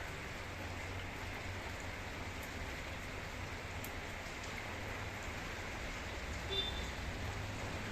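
Heavy rain falling in a steady hiss, with a steady low hum underneath.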